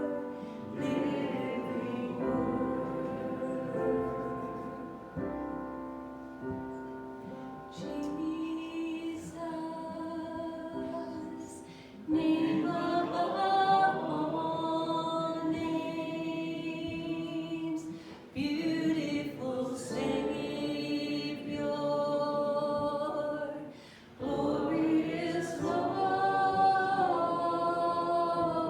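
Group of voices singing a hymn in held, phrased notes, growing louder about twelve seconds in.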